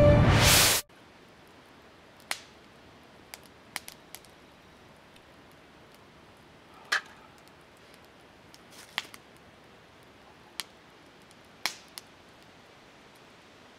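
Music cutting off just under a second in, then a wood campfire burning, with scattered sharp crackling pops at uneven intervals.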